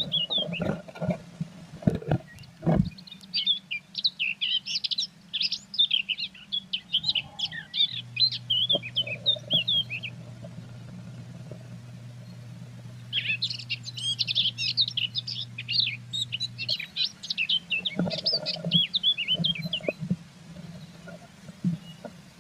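Blue tit inside a nest box giving rapid, high chirping calls in two runs of several seconds each. Sharp knocks and scratches from the bird moving against the box come at the start and again near the end, over a steady low hum.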